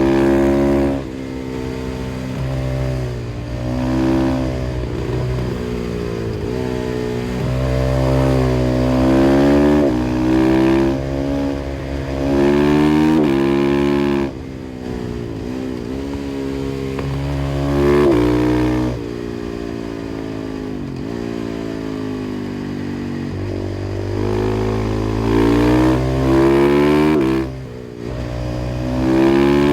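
KTM 500 EXC-F's single-cylinder four-stroke engine through an FMF exhaust, ridden hard. The revs climb and fall again and again as the bike accelerates and slows, broken by several short dips where the throttle is shut.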